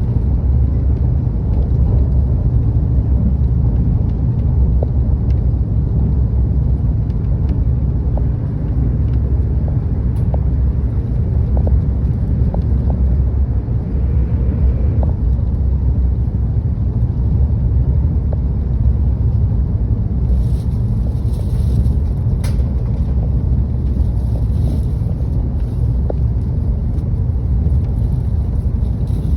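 Seoul metro train running: a steady low rumble with occasional light ticks, and a higher hiss joining about two-thirds of the way through.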